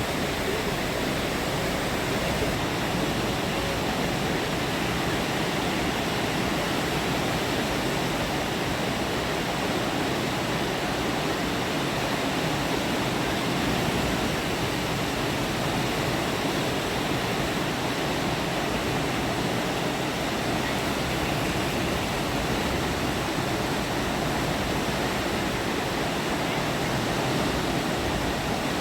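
Chenab river in flood after heavy rain: a steady, unbroken rush of fast-flowing water.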